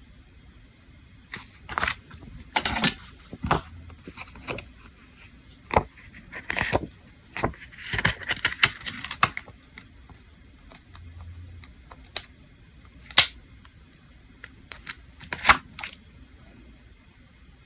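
Small hard objects clicking, tapping and clinking against each other and a hard surface, in irregular bursts, with a longer rattling run about eight seconds in and a few lone clicks near the end.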